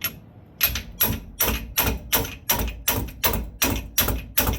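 Hammer blows on steel, about a dozen in quick succession at two to three a second, each with a bright metallic ring, driving a new pinion bearing down onto a Dana 44 rear axle's pinion shaft. The bearing is moving on under the blows.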